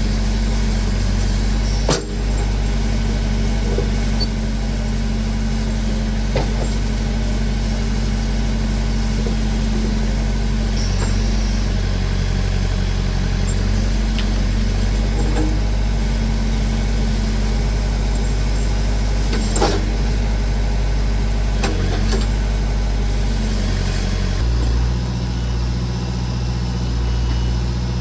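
Massey Ferguson backhoe's engine running steadily while working, with a few sharp metallic knocks. About three-quarters of the way through, the engine note shifts lower.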